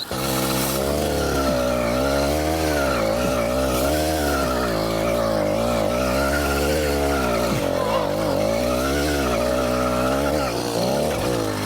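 Small 80cc two-stroke engine on a motorised mountain bike running hard, its pitch rising and falling again and again as the throttle is opened and eased.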